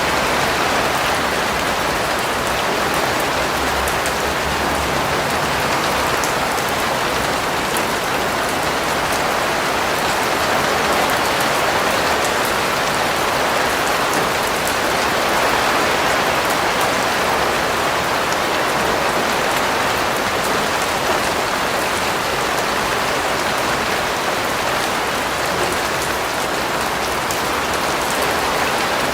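Steady rain falling on a surface, an even hiss with scattered fine drop ticks and no break.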